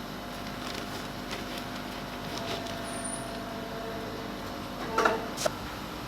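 Plastic injection molding machine running with a steady hum and held tones, with two short, sharp mechanical sounds about five seconds in.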